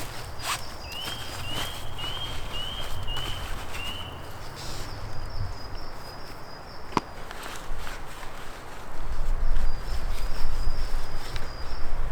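A bird calls a run of six short, evenly spaced chirps in the first few seconds, with strings of high thin notes around it. There is a sharp click about seven seconds in, and a low rumbling, footstep-like noise that grows louder about nine seconds in.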